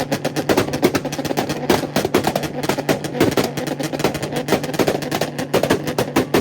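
A car engine held on a two-step launch rev limiter, its exhaust firing a rapid, irregular string of loud pops and bangs over a steady held engine note.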